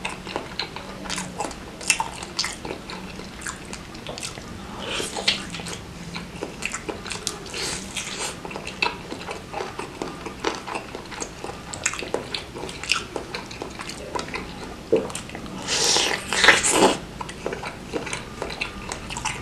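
Close-miked chewing and biting of a bakso urat (beef-tendon meatball) in spicy broth: wet mouth clicks and soft crunches of the gristly tendon bits. About four-fifths of the way through there is one louder, longer burst of noise.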